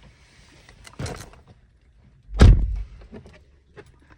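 A car door pulled shut with one heavy thud about two and a half seconds in, after a lighter knock about a second in.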